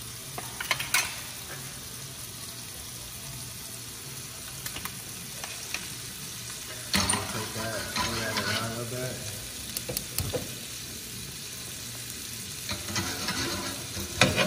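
Steady frying sizzle from shrimp in a skillet and from andouille sausage with diced onion, celery and bell pepper in a saucepan, while a spatula stirs and scrapes the vegetables. A few sharp clicks of the utensil against the pan near the start, and the stirring grows louder for a couple of seconds about halfway through.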